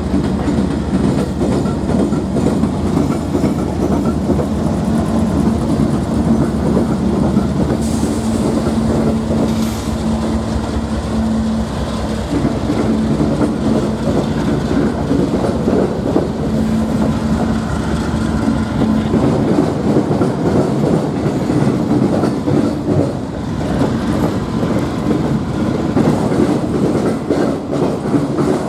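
A train rolling past close by, its wheels clattering steadily over the rails.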